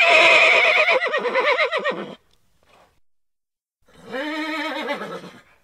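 Horse whinnying twice: a long, loud, quavering whinny lasting about two seconds, then after a short pause a shorter, lower call that rises and falls, about four seconds in.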